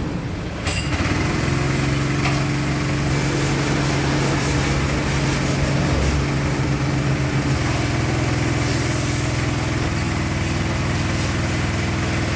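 Isuzu Panther engine running with a steady hum after a click about a second in; the tone of the hum shifts slightly a few times.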